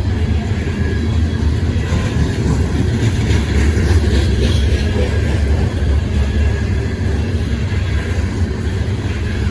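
A train rolling by, a steady low rumble with faint high ringing tones from the wheels and rails.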